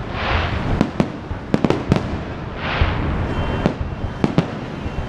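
Fireworks display: a quick series of sharp bangs from shells bursting, with two longer hissing bursts, one just after the start and one nearly three seconds in.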